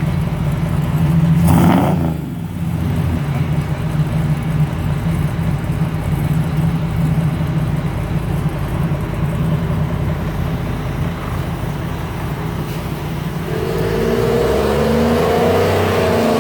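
1971 Chevrolet Chevelle engine running through its newly finished exhaust. It gives a quick rev about a second in, settles back to idle, then is held at higher revs for the last few seconds.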